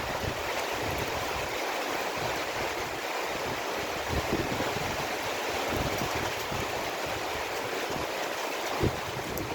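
Heavy downpour with wind: a steady, dense hiss of rain, with one sharp tap near the end.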